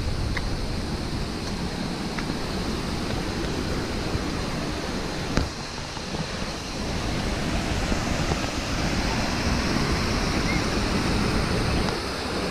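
Waterfall water rushing steadily, with one short knock about five seconds in.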